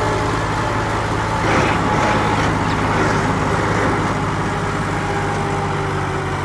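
Tractor diesel engines running steadily under the heavy load of a tractor tug-of-war, with a brief burst of noise about a second and a half in.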